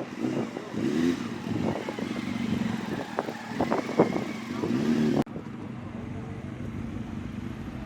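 Car-show crowd chatter over a low engine rumble. About five seconds in, an abrupt cut leads to a steady, quieter engine running.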